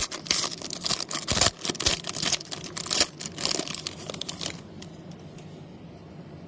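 Baseball card packaging wrapper being torn open and crinkled, a dense crackling that stops about four and a half seconds in.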